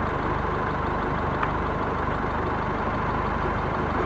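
Motor vehicle engine running steadily with an even low pulse.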